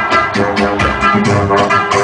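Loud dance music from a pickup-truck sound system, with a steady beat and a melodic line over it.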